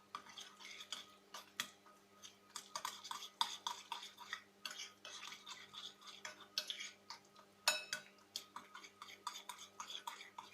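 A utensil stirring thick yogurt and green herb paste together in a mixing bowl, with irregular soft scrapes and clinks against the bowl and one sharper knock about three-quarters of the way through.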